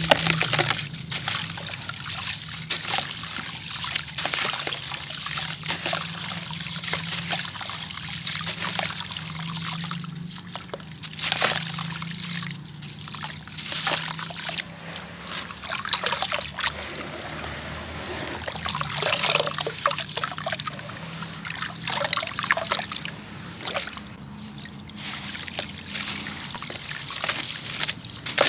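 Gritty sand-cement bowl crumbling in water: an irregular stream of fine crackles, with trickling and sloshing water and a few louder splashes.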